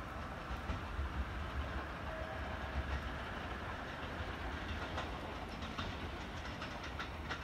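A train running away down the line: a steady low rumble, with sharp clicks of wheels over rail joints coming more often in the last few seconds.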